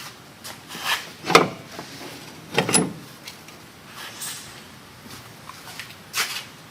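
Metal tools and parts clanking as they are handled during front suspension work: a few separate sharp knocks, the loudest about a second and a half in and near three seconds, with another near the end.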